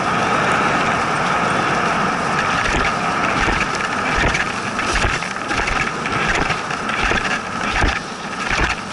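Dog sled running over snow: the runners hiss and scrape steadily, with scattered knocks and rattles from the sled, more of them in the second half.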